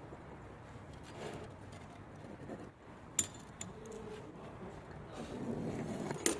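Metal parts and tools being handled on a workbench, with two sharp metallic clinks, one about three seconds in and one near the end.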